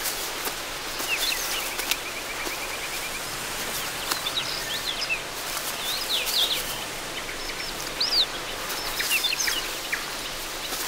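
Birds calling: short, high whistled notes that slide up or down, scattered through, and a quick run of short repeated notes between about one and three seconds in, over a steady outdoor hiss.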